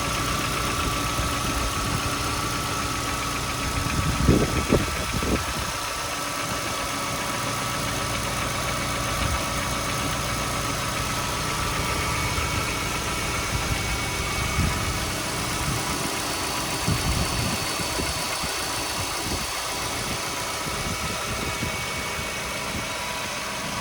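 Volkswagen Golf V's 1.6-litre BSE four-cylinder petrol engine idling with a knocking noise. A cluster of loud knocks comes about four to five seconds in, with fainter ones later.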